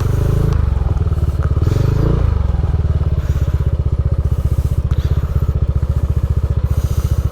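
Motorcycle engine running at low revs with a steady, even putter, changing a little in the first couple of seconds, then settling into a regular beat.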